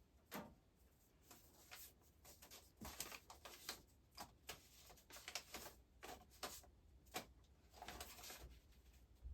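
Faint, irregular small clicks, taps and rustles from new guitar strings being handled and fitted on the guitar.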